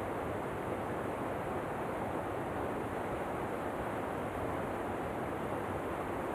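Steady, even rushing of falling water from a waterfall, with no change in level.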